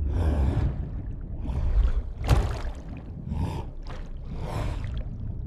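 Water splashing and swishing in repeated strokes, about one a second, over a steady low rumble, like something moving through a river.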